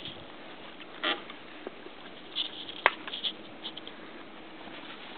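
Faint steady background hiss with a few scattered light rustles and clicks, one sharper click about midway.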